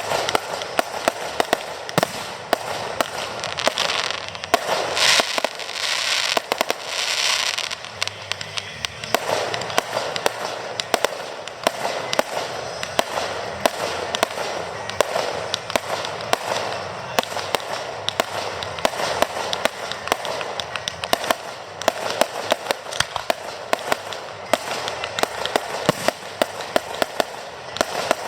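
Fireworks display: a dense, rapid run of bangs and crackles from aerial fireworks going off one after another, with a louder hissing crackle about five to seven seconds in.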